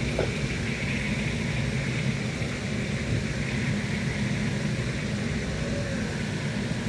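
A steady low drone with a hiss above it, unchanging throughout.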